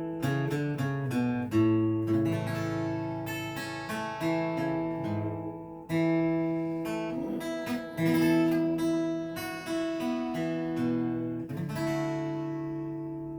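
Instrumental acoustic guitar music: chords and single notes plucked, each ringing out and slowly fading before the next.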